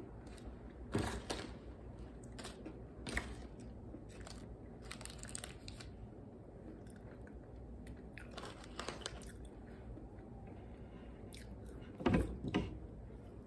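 Close-up chewing and crunching of French fries, with several louder bites, the loudest near the end.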